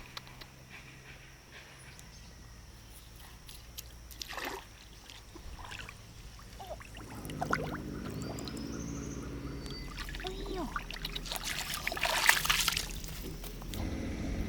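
Water splashing and trickling, with a louder rush of water about twelve seconds in. A low steady hum joins about halfway through.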